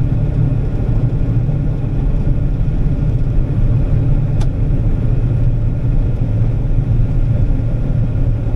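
Steady low rumble of a farm machine's diesel engine running, with one short click about four and a half seconds in.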